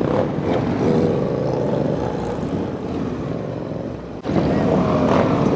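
Motorcycle engines running, several stacked engine tones with a steady noise underneath. About four seconds in, the sound briefly dips and then jumps back louder.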